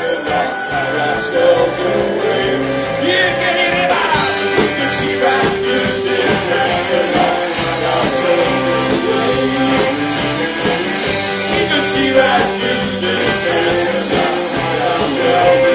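A live rock band playing a song, with drums and cymbals keeping a steady beat under sustained guitar notes.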